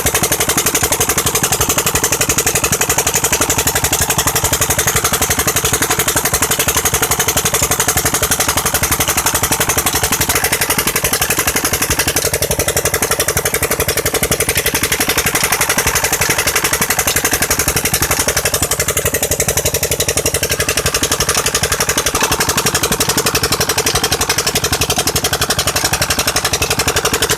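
Petter engine converted to run on LPG, driving a tube-well pump and running steadily at an even speed, its rapid firing beats regular throughout.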